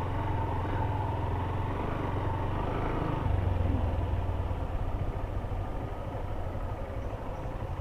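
Honda CB Hornet 160R's single-cylinder engine running while the motorcycle is ridden, with road noise. It gets louder a little over three seconds in, then eases off.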